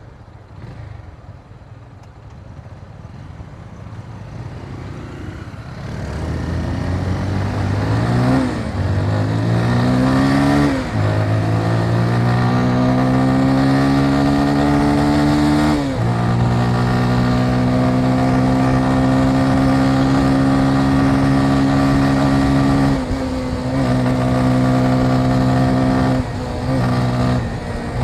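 Motorcycle engine, quiet at first, then accelerating up through the gears, its pitch climbing and dropping back at each of about three shifts. It then holds a steady cruise, with two brief throttle lifts near the end.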